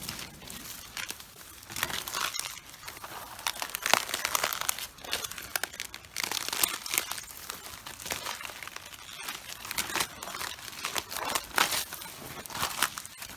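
Cabbages crushed underfoot while walking: crisp leaves crunching, crackling and tearing in uneven surges with each step.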